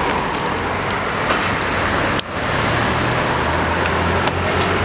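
Steady road-vehicle noise: a low engine drone with road rumble, interrupted by a sharp click and a momentary dropout about two seconds in.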